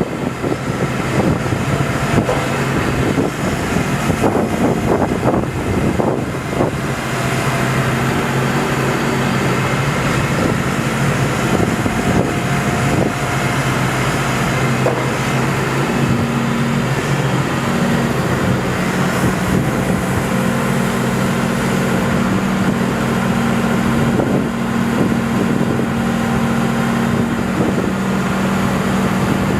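Yuchai YC80-9 crawler excavator working, its diesel engine running steadily with the engine note shifting up and down as it works. Sharp knocks and clanks come through in the first few seconds.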